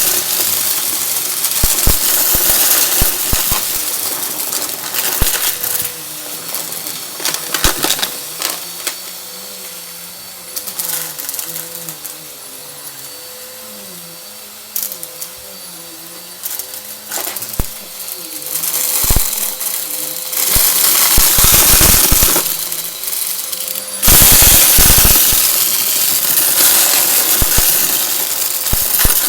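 Vacuum cleaner sucking up crunchy debris: rapid clicks and rattles of bits striking inside the machine over the steady rush of the motor and airflow. The rattling thins out and the sound drops for a stretch in the middle, then it grows loud and dense again near the end.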